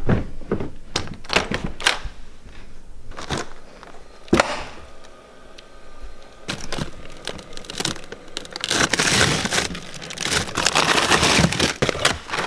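Footsteps going down a flight of stairs, then a single thump about four seconds in. After that comes rummaging, with a rustling, crinkling noise near the end.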